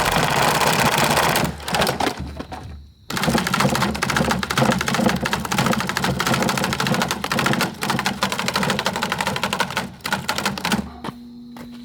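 Windmere table fan clattering mechanically in a dense, rapid rattle of small knocks, as it is wrecked. The rattle dies away about two seconds in and starts again a second later. It stops near the end, leaving a steady hum.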